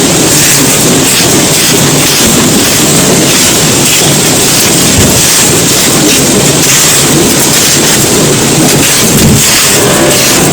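Semi-gritty dry balls crushed and crumbling onto a floor: loud, continuous crunching of breaking grit.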